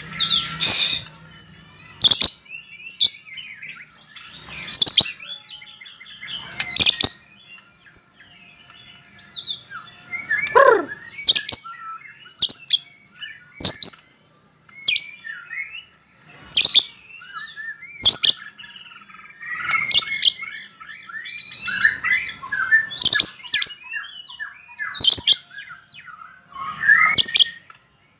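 White-rumped shama (murai batu) of the Bahorok strain singing a varied song of whistles and warbles, broken every second or two by loud sharp notes, with a long falling whistle about ten seconds in.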